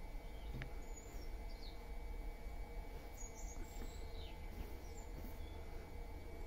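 Faint, scattered high chirps of small birds over a steady low background hum.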